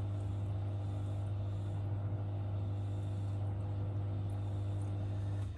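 Miele W1 washing machine running its TwinDos maintenance cycle, flushing the cleaning liquid through: a steady low mechanical hum that cuts off with a sharp click at the very end as the cycle finishes.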